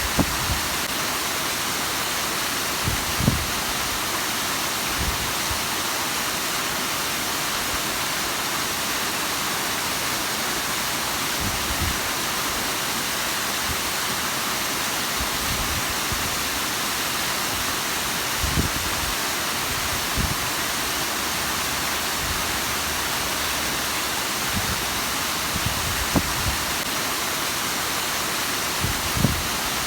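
Bigăr waterfall: water falling and splashing in a steady, even rush, with a few brief low thumps scattered through it.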